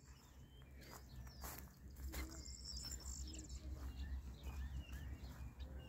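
Birds chirping faintly in short scattered calls over a low rumble that grows about two seconds in.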